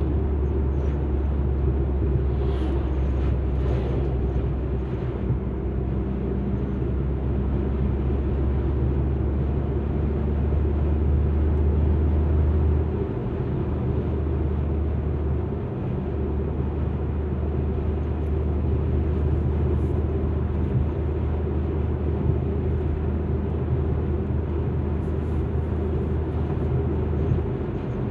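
Alfa Romeo MiTo driving along: a steady low rumble of engine and tyre noise, dipping briefly about 13 and 16 seconds in.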